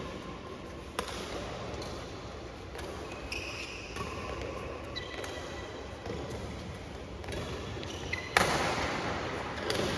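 Badminton rackets striking a shuttlecock in a rally, sharp hits about once a second over the hum of a sports hall, with the loudest hit near the end.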